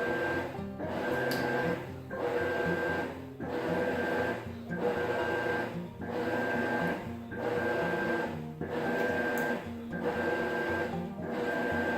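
Maytag top-load washing machine agitating: the motor runs in even strokes of about a second with a short pause between each, as the agitator reverses direction back and forth.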